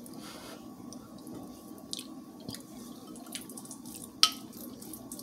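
Close mouth sounds of someone chewing a mouthful of soft rice and gravy, with small wet clicks. A sharp tap a little past four seconds in, the plastic spoon going back into the bowl, is the loudest sound.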